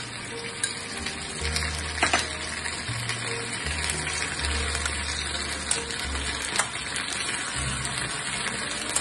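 Chicken pieces in sauce sizzling in a kadai, with a few sharp clicks of a spoon against the pan as it is stirred. Background music with low notes that change in steps plays over it.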